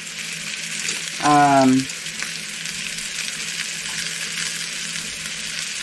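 Beef chuck roast searing in hot oil in a pan: a steady sizzle. A short spoken sound breaks in about a second in.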